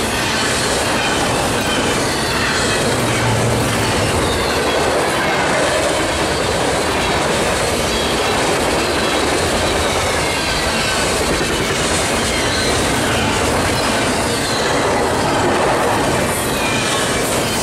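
Freight train of double-stack intermodal well cars and boxcars rolling past close by at speed: a loud, steady rush of steel wheels on rail, with faint wavering high squeals over it.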